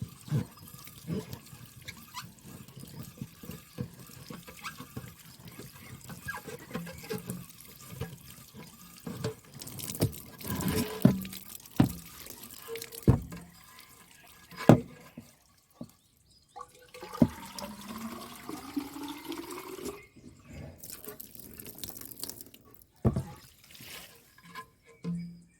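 Water running and splashing as water-tank filter sheets are rinsed by hand, with scattered sharp knocks and clatters. Past the middle, a tone rises steadily for about three seconds.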